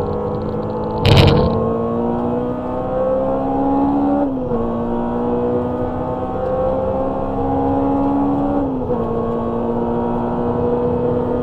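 Honda Civic EG6's B16A inline-four engine heard from inside the cabin under full acceleration, its pitch climbing steadily and dropping sharply twice at upshifts, about four seconds apart. A sharp knock sounds about a second in.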